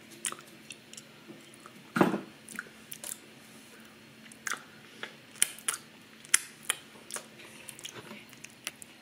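Close-miked mouth chewing crackers with cream cheese: a scatter of short, sharp crunchy clicks, the loudest about two seconds in.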